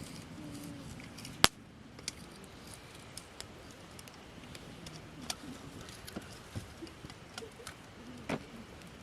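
Campfire of gathered branches crackling, with scattered sharp pops; one loud pop about a second and a half in.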